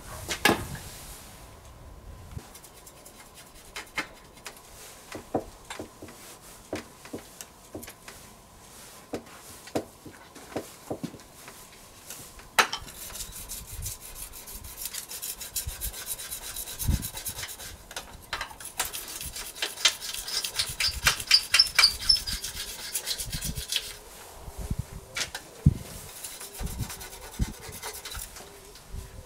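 Wood being worked by hand: scattered knocks and taps, then from about halfway a long run of quick rasping, rubbing strokes. The strokes are thickest a few seconds before they stop, and a few more knocks follow.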